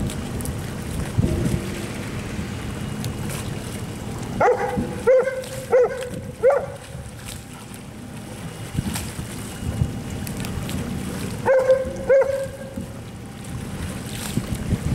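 A dog barking in two short runs, four quick barks and then two more, over steady wind noise on the microphone.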